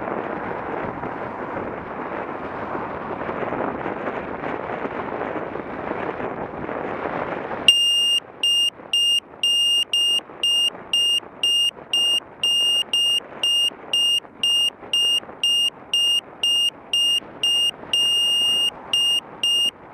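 Wind rushing over the microphone of a moving bike-mounted camera, cut off abruptly after about eight seconds by a steady electronic beeping, a single high tone repeating about twice a second.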